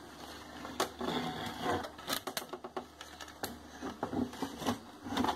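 Irregular light clicks and taps as a chip and small tools are handled on a circuit board at a workbench.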